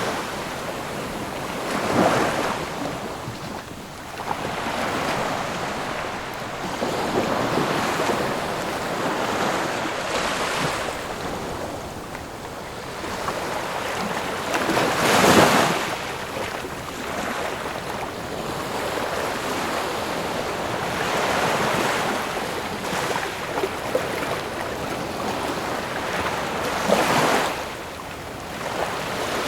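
Ocean waves breaking and washing on a shore in a continuous rushing surf, with waves cresting louder about 2 seconds in, midway, and near the end.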